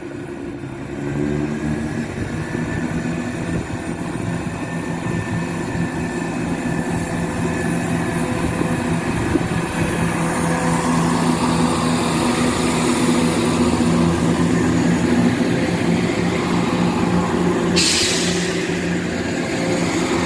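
ScotRail Class 170 Turbostar diesel multiple unit departing, its underfloor diesel engines running steadily under power and slowly growing louder. A short, sharp hiss sounds near the end.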